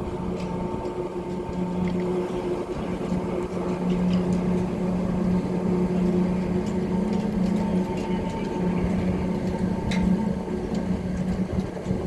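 A steady mechanical hum with a constant low tone and fainter steady overtones, with a few faint clicks.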